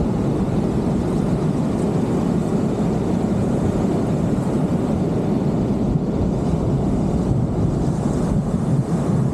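Steady low rush of ocean surf, mixed with wind noise on the microphone.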